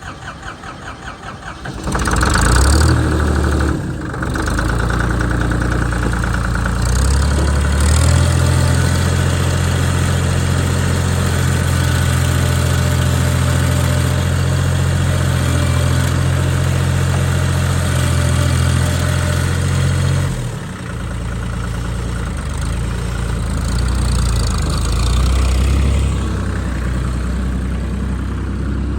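Deutz-Allis 5230 diesel tractor engine cranking on the starter for about two seconds, then catching and running. It is throttled up about eight seconds in, held steady, and dropped back to a lower speed around twenty seconds in.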